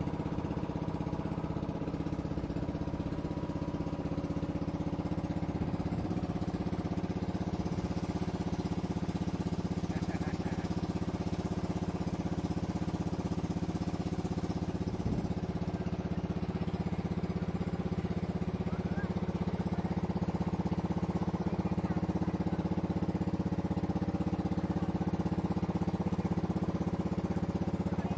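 Boat engine running at a steady speed, an even unbroken drone.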